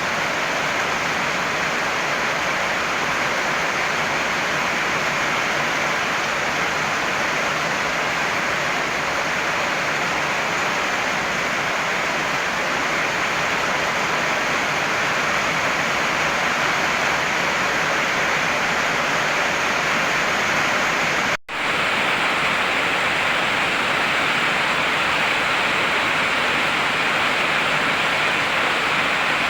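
Heavy rain pouring steadily in an even, unbroken hiss. The sound cuts out for an instant about two-thirds of the way through, then resumes unchanged.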